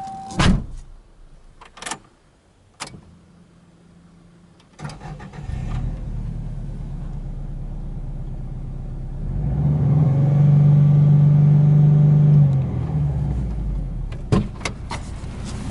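A few clicks, then a Subaru Impreza WRX's turbocharged flat-four boxer engine cranks and catches about five seconds in and settles into a steady idle. About ten seconds in the engine speed rises and holds higher for a couple of seconds, then eases back, with a few more clicks near the end.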